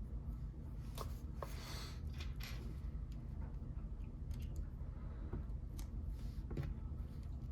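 Lego pieces being handled and snapped together: scattered small plastic clicks and brief rustles over a steady low hum.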